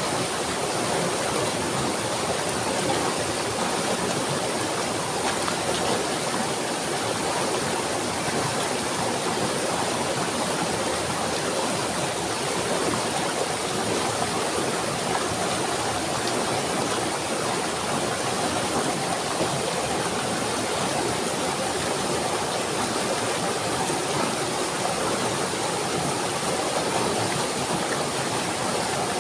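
Running water flowing steadily, an even, unbroken rush with no changes.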